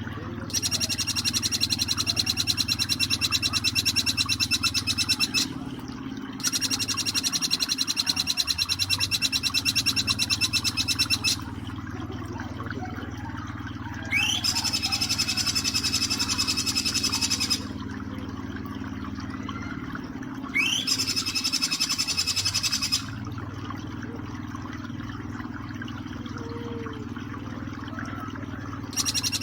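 Jing jing petulak birdsong: four long, rapid, high-pitched rattling trills a few seconds apart, the third and fourth each opening with a quick rising note, over a steady background of flowing water.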